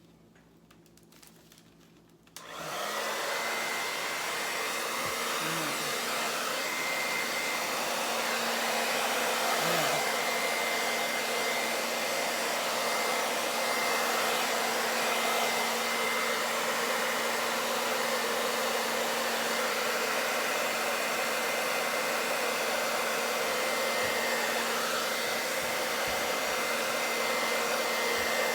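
Hair dryer switched on about two and a half seconds in, then running steadily, blowing fluid acrylic paint across the canvas: a steady rush of air with a faint hum and a thin high whine.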